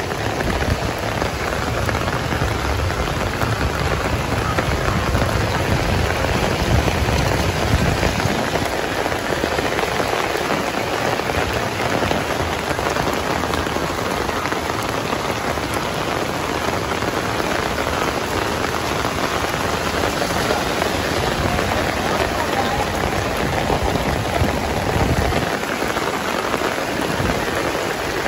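Heavy rain pouring steadily onto a paved street. A low rumble sits under it for the first several seconds and returns near the end.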